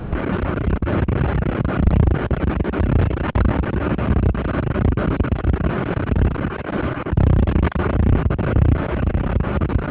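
Thunder rumbling deep and loud, without a break, after a close lightning strike.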